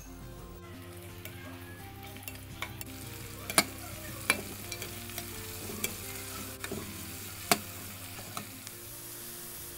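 Chopped shallots, garlic, lemongrass and chilies sizzling as they sauté in hot oil in a frying pan, stirred with a metal spatula that scrapes and knocks against the pan with a few sharp clicks.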